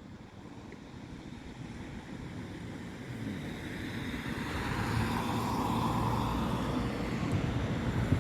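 Rumble of an approaching vehicle, growing steadily louder over several seconds.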